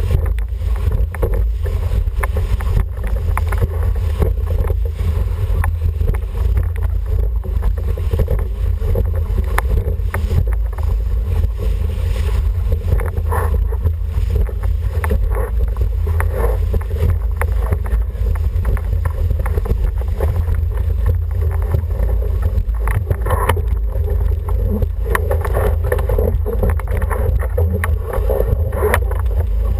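Wind buffeting the microphone in a heavy steady rumble, over water rushing along the hull of an International 14 sailing dinghy under way, with scattered knocks and splashes in the second half.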